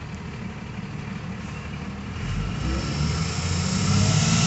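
Semi-truck diesel engine idling with a low rumble that grows louder and heavier about two seconds in.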